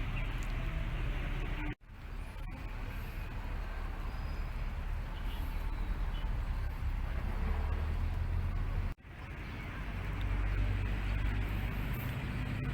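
Outdoor background noise with a steady low rumble, like street traffic, cut off abruptly twice.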